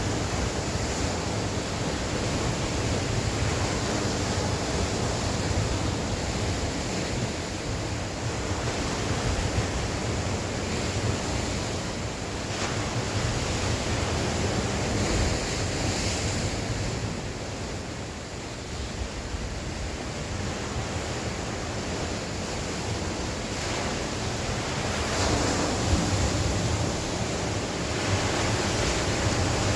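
Sea waves breaking and washing on the shore, a continuous surf rush that swells and ebbs, dipping briefly in the middle and building again near the end, with wind buffeting the microphone.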